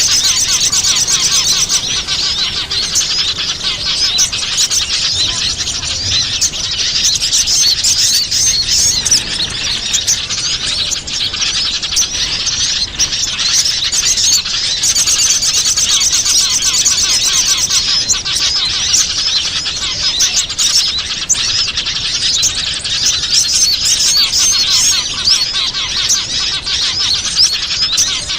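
Dense, continuous chorus of many small wild birds chirping and twittering rapidly, high-pitched. It is a bird-lure (pikat) recording, played to call small wild birds in.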